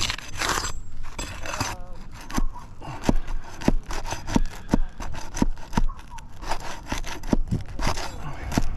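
Hand tool working wood in evenly spaced strokes, about one and a half a second, after a second of dense rasping.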